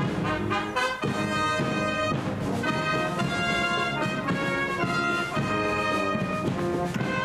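Live brass band playing a piece, trumpets and trombones carrying sustained chords with drums underneath.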